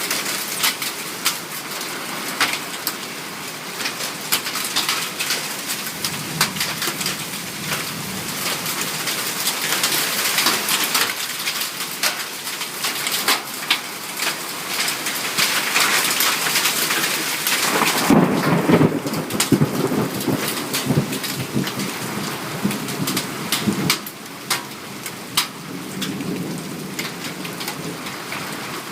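Heavy thunderstorm rain, a steady hiss full of sharp ticks of drops striking surfaces. About eighteen seconds in, a roll of thunder rumbles for around six seconds, and afterwards the rain is quieter.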